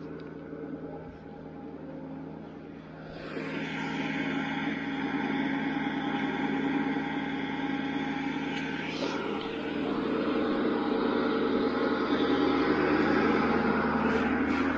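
Ford F450 recovery truck's engine running steadily, growing louder about three seconds in as the truck moves off.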